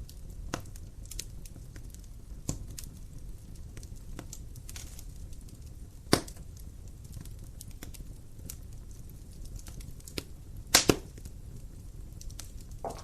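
Wood fire crackling in a fireplace: a low steady rumble with scattered sharp pops, the loudest about six seconds in and a close pair of pops near the end.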